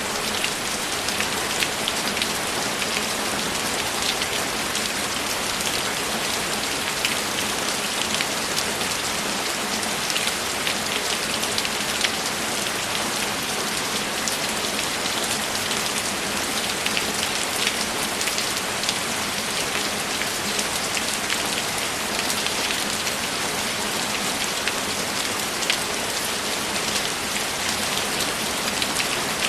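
Steady heavy rain: an even hiss of rainfall with many sharp individual drop ticks scattered through it.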